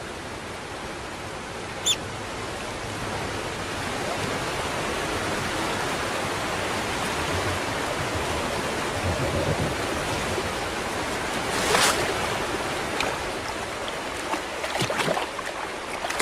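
River water rushing steadily, with a few brief sharp sounds over it; the loudest comes about twelve seconds in.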